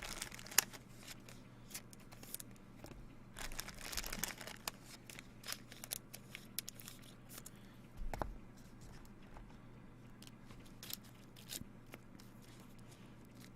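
Trading cards and their packaging being handled on a table: faint rustling and crinkling with scattered small clicks, busiest about four seconds in, and a soft knock around eight seconds in.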